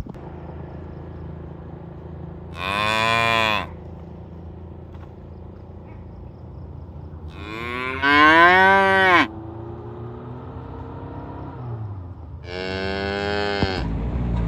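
Cattle mooing: three separate moos, the first short, the second longer and loudest with a pitch that rises then falls, the third about a second long near the end.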